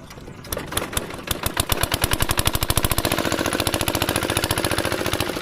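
Diesel engine of a water pump set starting: a few slow beats about half a second in quickly speed up into a fast, steady firing rhythm as the engine catches and keeps running.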